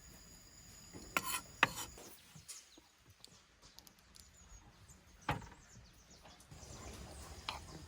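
A few sharp knocks: two close together about a second in, a single one about five seconds in, and a fainter one near the end, with faint handling and rubbing noise between.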